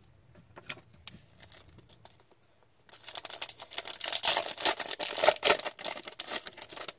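Faint clicks of cards being handled, then about three seconds in a loud, dense crinkling and rustling of a trading-card pack wrapper and cards being handled.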